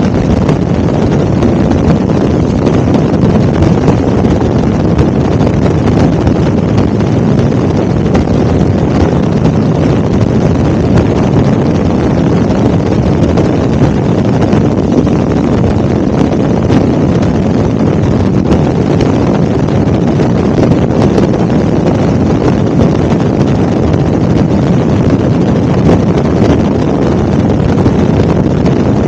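Helicopter in flight: the rotor and engine make a loud, steady noise with no breaks, heaviest in the low range.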